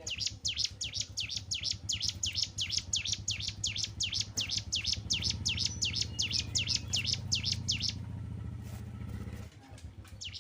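Cigun songbird singing a fast, even run of high, downward-slurred chirps, about four or five a second, breaking off about eight seconds in. A low rumble runs underneath.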